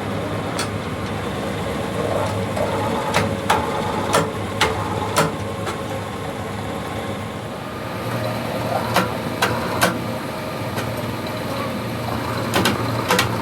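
A workshop machine running with a steady hum, broken by short, sharp knocks: several in the first half, a few more a little later, and a quicker run of them near the end.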